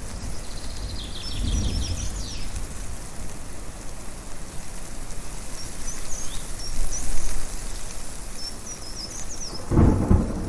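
Rumbling thunder over a steady rush of wind, with a loud crack of thunder near the end. Birds chirp in short bursts a few times.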